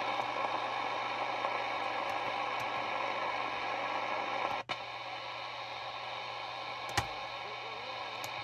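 Sony ICF-2001 receiver's speaker giving a steady static hiss between stations. The hiss cuts out for a moment about halfway through, and a single click follows a couple of seconds later.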